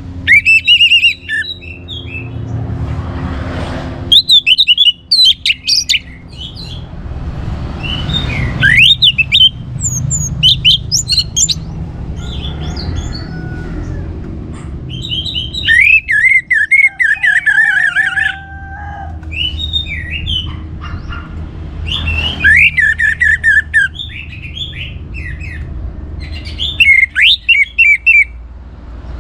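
Orange-headed thrush singing in full song: short bursts of quick, varied phrases every few seconds, over a low background rumble.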